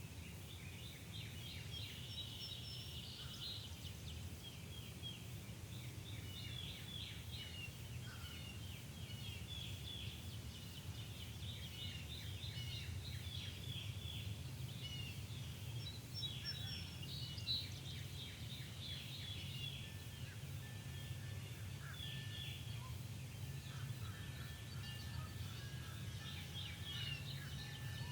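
Many birds calling at once in quick, repeated high notes, over a low steady hum.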